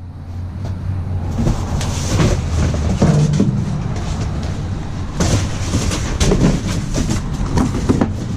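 Continuous clattering and rattling of discarded items being shifted and rummaged through in a dumpster, over a steady low rumble.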